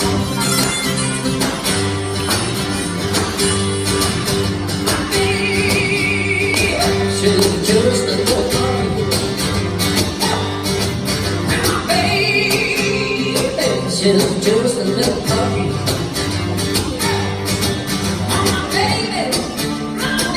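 Live band music: fast strummed guitar over a steady stepping bass line, with a wavering lead melody rising above it twice.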